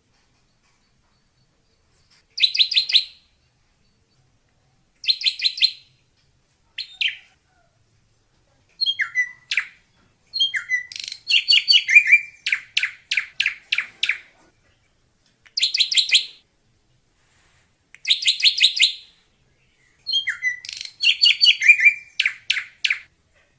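Drongo singing: short bursts of rapid, buzzy notes alternating with longer phrases of quick falling whistles, about eight phrases separated by pauses of a second or two.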